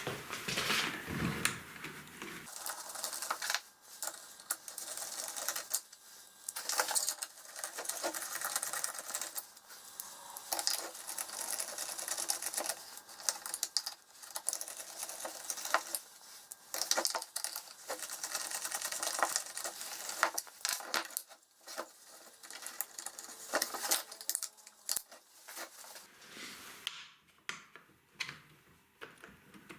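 Wooden single-cylinder air engine running on compressed air: a rapid clatter with hissing air, the hiss from an inlet slide valve that leaks badly. It surges and slows in bouts and dies down near the end.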